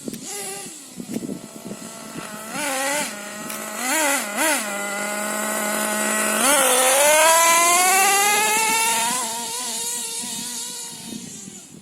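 Two-stroke nitro glow engine (LRP ZR.28 Spec 4) of an RC monster truck: a few quick throttle blips, then a long full-throttle run with the pitch climbing steadily, easing off and fading near the end.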